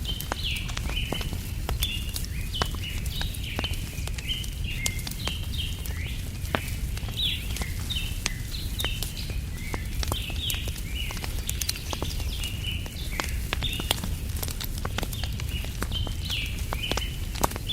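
Campfire crackling with frequent sharp pops over a steady low rumble, while small birds chirp continuously in quick, high notes.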